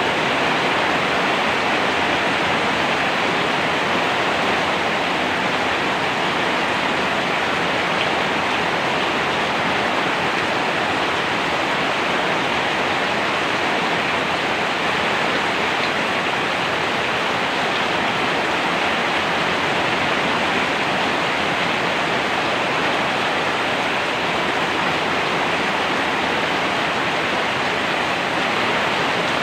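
Steady, even rain, a dense unbroken hiss of falling water with no individual drops standing out.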